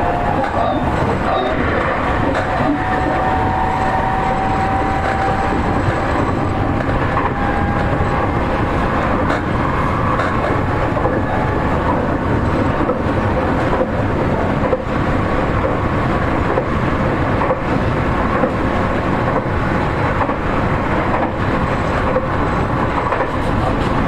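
Seibu 40000-series electric train running between stations, heard from inside the car: steady rolling noise of wheels on rail. A faint whine from its Toshiba permanent-magnet synchronous traction motors rises slowly in pitch early on.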